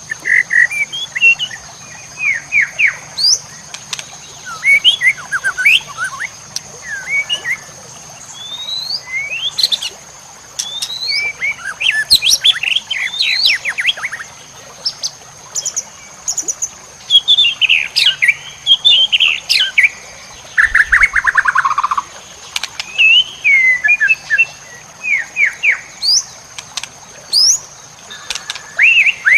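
Songbird masteran recording: a run of loud, varied chirps, whistles and fast trills in quick phrases with short gaps, including a falling rattling trill about two-thirds of the way through. A steady high-pitched tone runs underneath.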